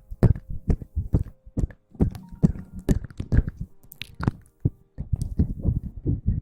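Close-miked ASMR rustling and tapping: a fast, irregular run of soft thumps and clicks, with a brief pause about five seconds in.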